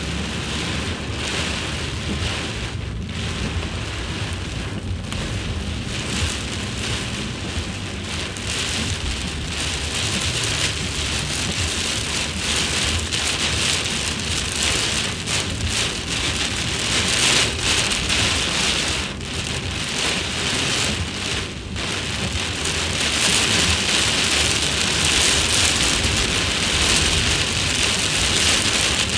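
Very heavy rain pouring down in a dense, steady hiss, growing louder over the second half.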